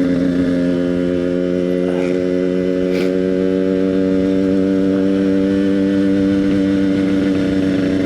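Yamaha RX-King's single-cylinder two-stroke engine with an EnzyProject aftermarket exhaust, running at steady cruising speed on the road. Its note sags a little in the first second or two, then holds steady.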